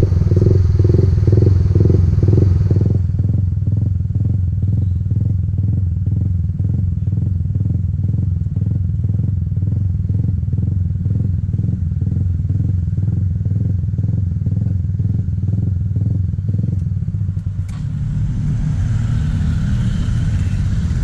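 Motorcycle engine running at low revs with an even, pulsing low throb while riding slowly. Near the end there is a sharp click, after which a brighter hiss joins the engine sound.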